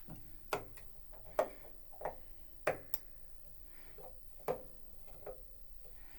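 Irregular light clacks and knocks of wooden spinet piano parts being handled during disassembly, about seven in six seconds, each with a short ring.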